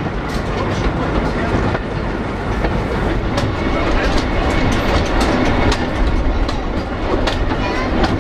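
Railway carriage running along the line, heard from on board: a steady rumble with scattered sharp clicks of the wheels over the rail joints.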